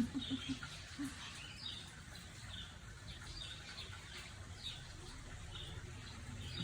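A small bird chirping in the background, short high falling chirps about once a second, over a faint low hum.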